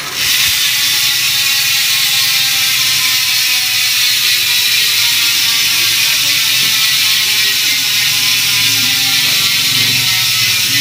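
Mountain-bike rear freehub coasting: the pawls ratchet in a fast, continuous buzz as the rear wheel spins freely, the pitch sinking slightly as the wheel slows.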